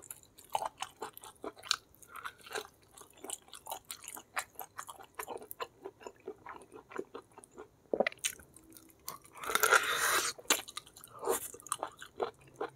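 A person chewing and biting food close to the microphone: a run of short wet clicks and crunches, with a louder, longer stretch of crunching and gnawing a little after halfway.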